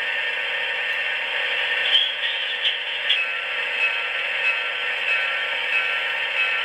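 Sampled diesel locomotive bell from a QSI sound decoder in an Atlas HO-scale GP40-2, ringing steadily through the model's small speaker, thin with no bass.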